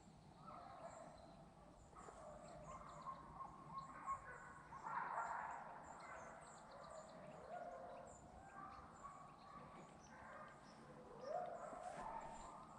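Faint, drawn-out whining of hunting hounds, pitched calls that rise and fall, one sliding up near the end.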